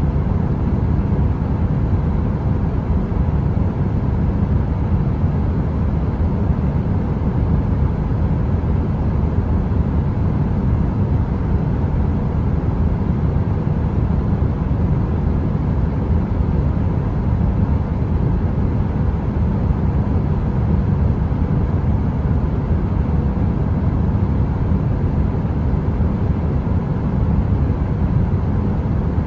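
Heater fan running steadily: an even, deep noise with a faint hum over it.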